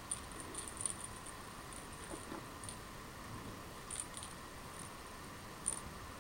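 Faint scattered light ticks and tinkles of kittens playing with a toy: a cluster in the first second, a few more around four seconds in, and one near the end, over a steady low hum.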